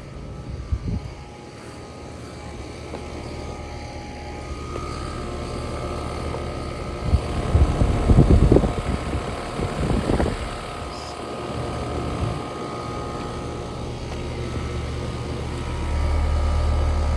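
A steady mechanical hum with a few held tones, with rough rumbling bursts in the middle and the low hum stepping up near the end.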